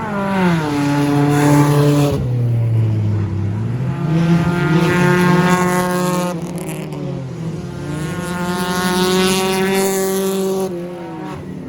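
Stock car engines racing past on the track. The pitch drops as a car goes by just after the start, then climbs as the cars accelerate, holds, and drops again as they pass near the end.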